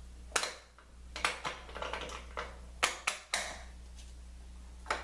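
Wooden parts knocked and slid against each other: about five sharp knocks, some followed by a short scrape, over a faint steady hum.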